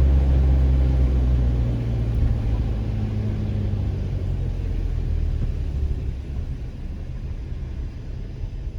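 Motor vehicle engine rumble with a steady low hum that fades over the first few seconds. A quieter steady noise haze remains.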